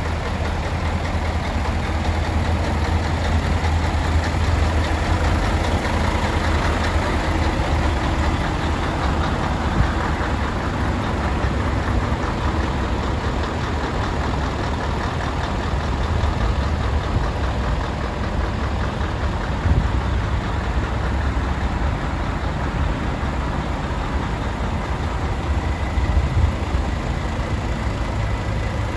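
Volvo FH 460 tractor unit's 13-litre six-cylinder diesel engine idling steadily.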